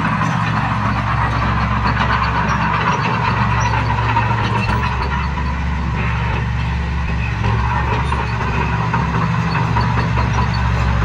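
Heavy diesel earthmoving machinery running steadily under load, a low engine drone with a rougher, noisy upper layer and no clear revs or stops.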